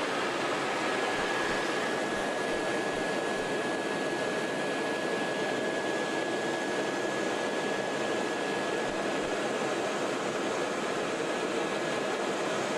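Helicopter in flight heard from the cabin: a steady, dense rush of engine and rotor noise with a faint high whine held on one note.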